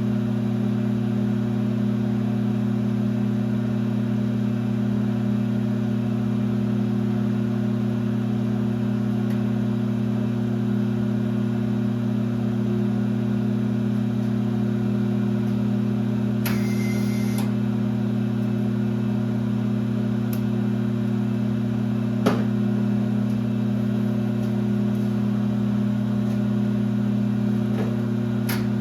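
1966 LeBlond geared-head lathe running with a steady hum, broken by a brief hiss about two-thirds of the way in and a couple of sharp clicks.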